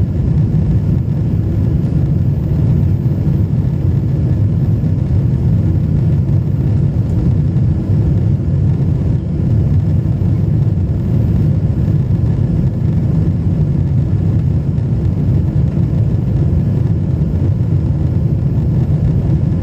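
Steady low rumble of jet engines and rushing air, heard from inside an airliner's passenger cabin in flight.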